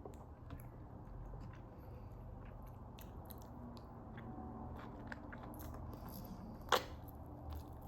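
Close-miked eating sounds of a person chewing fufu and goat soup: soft, wet chewing and scattered mouth clicks, with one sharper click about two-thirds of the way through.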